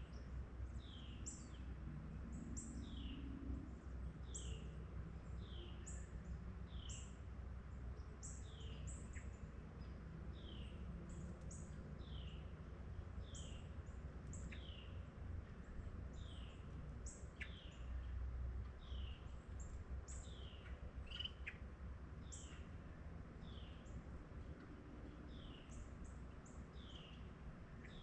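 A bird calling over and over, one short falling note about once a second, with higher thin chips mixed in, over a steady low rumble of outdoor background noise.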